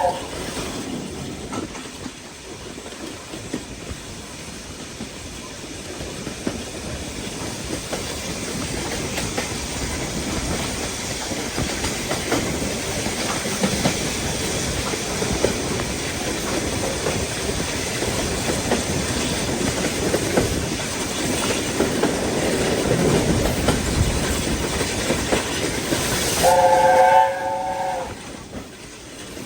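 A steam train running past, its wheels clicking over the rail joints as the noise builds to a peak about three-quarters of the way through. Its whistle sounds several notes together, cutting off just after the start and sounding again, loudest, for about a second and a half near the end.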